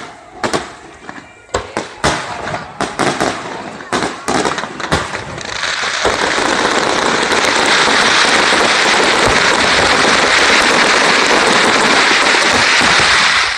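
Aerial fireworks going off: a string of separate sharp bangs, then from about halfway a dense, continuous crackling barrage that stops abruptly near the end.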